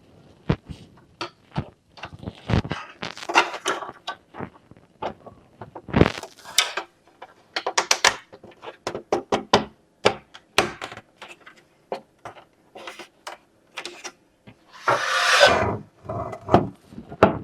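Parts of a bird feeder kit being handled and fitted together by hand: a string of irregular clicks, taps and knocks, with a longer rubbing or scraping noise about three quarters of the way through.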